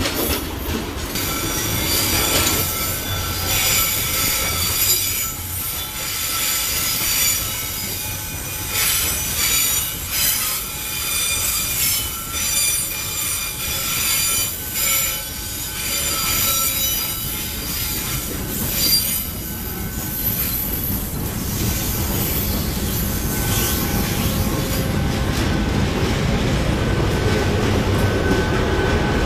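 Freight train of hopper wagons rolling past, its steel wheels squealing on the rails in several high steady tones over the running rumble of wheels on track. Near the end a deeper rumble grows as a diesel locomotive passes.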